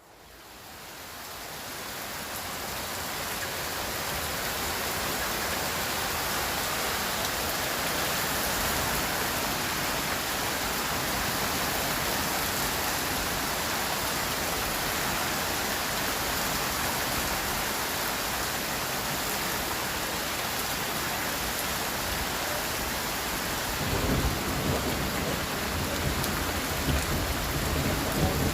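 Steady rain falling on city surfaces, fading in over the first few seconds and then holding even. A low, uneven rumble joins about 24 seconds in.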